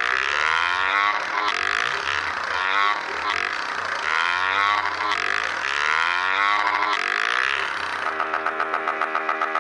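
Motorcycle engine revving, its pitch climbing and dropping back about every second and a half. Near the end it settles into a steady, even pulsing run.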